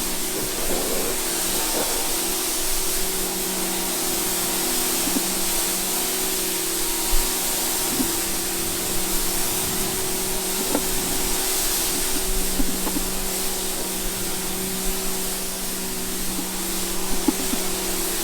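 A motor-driven cleaning machine running steadily: a constant motor hum under a strong hiss, with a few light knocks now and then.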